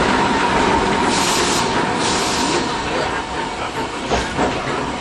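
Inside an older Iyotetsu streetcar running on the Matsuyama city line: a steady rumble of wheels on the track with a constant hum. Two short bursts of hiss come about a second and two seconds in, and a few knocks near the end.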